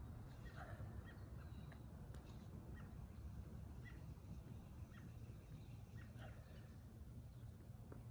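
Faint outdoor ambience: a steady low rumble with scattered short bird chirps.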